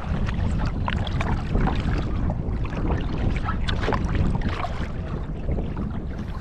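Wind buffeting the microphone with a steady low rumble, and water lapping and splashing in short irregular slaps against a fishing kayak on the open sea.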